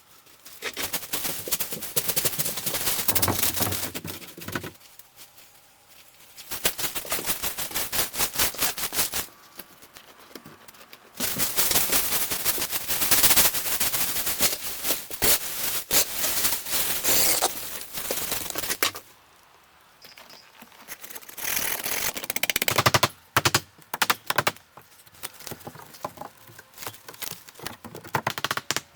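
Repair work on a wooden house: rapid runs of sharp clicks and knocks in bursts of a few seconds, with short pauses between.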